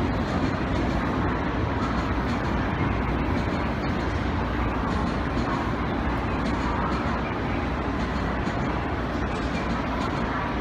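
Train running along a station platform: a steady, even running noise with no breaks or sudden sounds.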